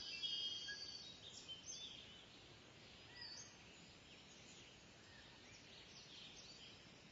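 Several birds calling outdoors: short high chirps and whistles over a faint hiss, with a louder burst of calls in the first second.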